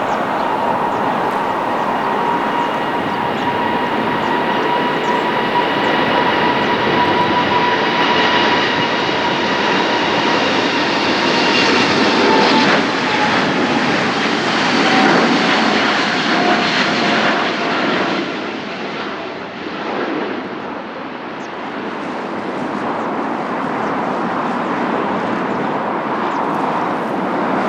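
Airbus A350-900's Rolls-Royce Trent XWB turbofans at takeoff power: a loud jet rush with a steady high whine. The whine drops in pitch as the aircraft passes, then the sound eases to a lower rumble near the end.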